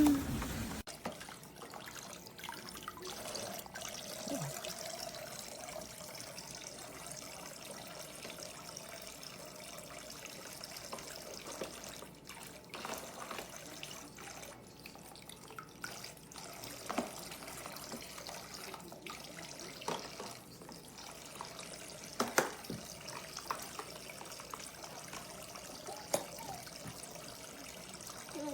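Water trickling steadily from a toy play sink's battery-powered faucet into its basin, with occasional small knocks and splashes.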